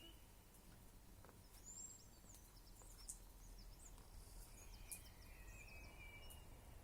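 Faint, distant birdsong over a quiet outdoor background: thin high whistled notes and short chirps, with a couple of small clicks about three and five seconds in.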